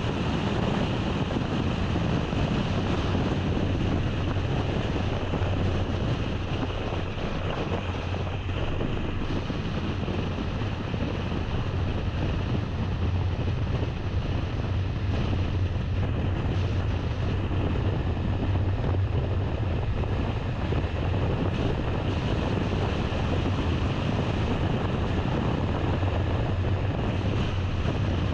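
A car driving along with steady road and wind noise, under a constant low hum, and no change in pace throughout.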